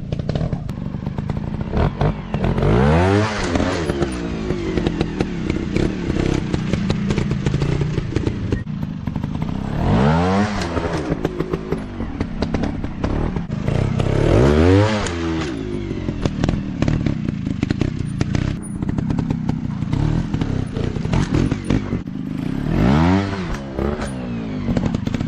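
Dirt bike engine revving hard and backing off repeatedly, with the revs surging about four times, amid constant clattering and knocks.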